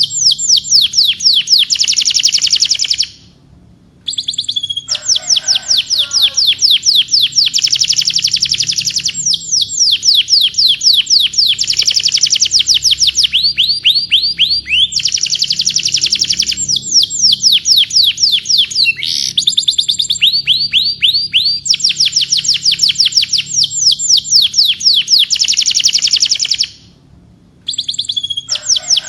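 Domestic canary singing: long rolling trills of very rapid, downward-sweeping high notes, the phrases changing speed and pitch, with two short pauses in the song.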